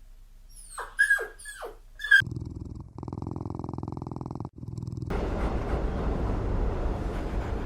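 A puppy gives a few short, falling whimpers, then a low, rattling growl that carries on and gets louder and rougher about five seconds in.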